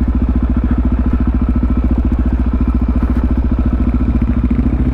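Supermoto motorcycle engine idling steadily, an even rapid pulse with no revving.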